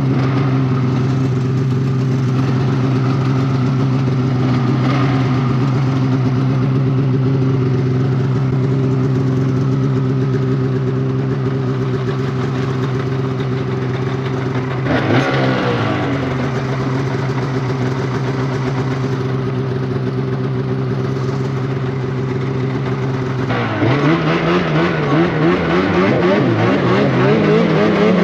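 Polaris Indy Cross Country 600 snowmobile engine running at a steady pitch for most of the clip, with a brief change of pitch about halfway. Near the end the pitch drops, then climbs again as the sled accelerates.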